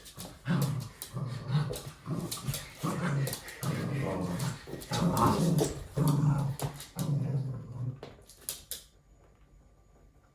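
Red toy poodle growling in play, a run of short low grumbling growls one after another that stop about eight seconds in.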